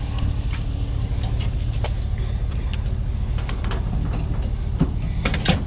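Steady low rumble of a running vehicle, with scattered light clicks and rattles and two louder clanks near the end.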